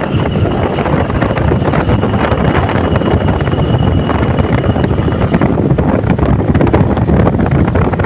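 Wind rushing over the microphone, a loud steady rumble and hiss while on the move. A faint high steady tone runs underneath and stops about five seconds in.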